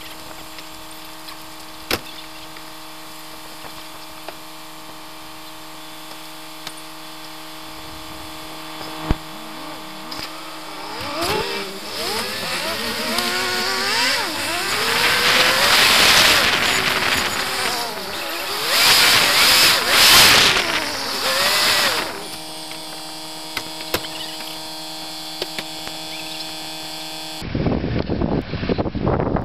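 A four-wheel drive's engine running steadily at low speed on a rough track, with a steady whine and a few sharp knocks. From about eleven seconds in the engine revs rise and fall and a louder rough noise builds, dying back down around twenty-two seconds. Near the end the sound cuts to wind noise on the microphone.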